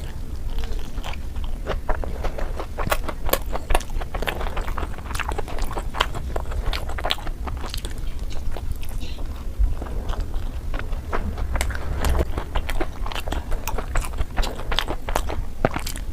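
A person biting and chewing food close to the microphone, with many irregular sharp crunchy clicks and wet mouth sounds, over a steady low rumble.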